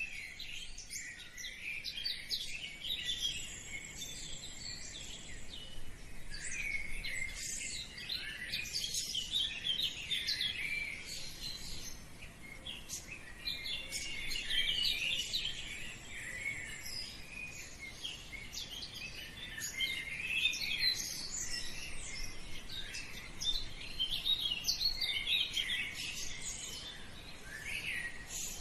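Birds chirping and twittering in many short, overlapping calls, a steady chorus of high chirps.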